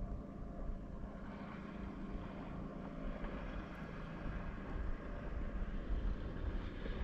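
Small boat outboard motor running steadily, a low hum.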